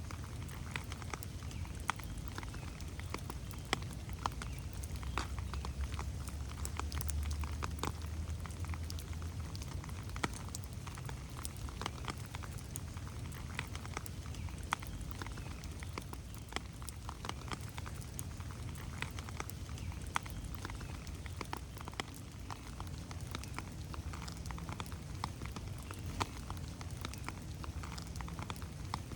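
Rain falling in a forest: many irregular drops tapping on leaves and the ground over a low, steady rumble that swells for a few seconds about five seconds in.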